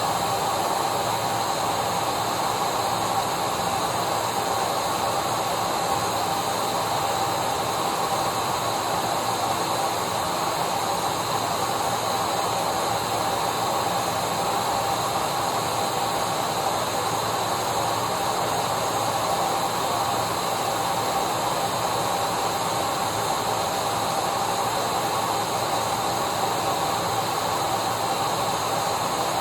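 Electric vacuum cleaner running continuously: a steady hiss of rushing air with a steady whine over it, never changing.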